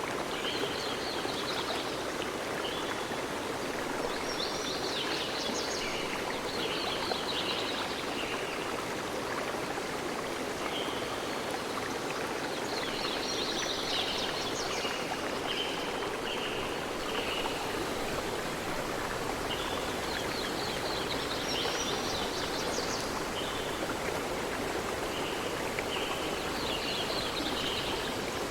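Stream water running steadily, with a songbird singing repeated phrases of high chirps, a new phrase every six to eight seconds.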